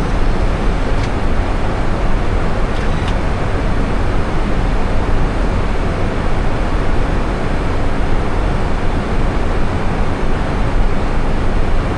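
Steady cockpit noise in an Airbus A320, a constant even rush strongest at the low end, with two faint clicks about a second and three seconds in.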